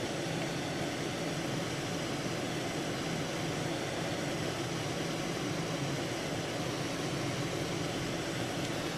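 Steady road noise inside a moving car's cabin: engine hum mixed with snow tyres running on a snow-covered, unplowed highway, with an even rushing hiss over it.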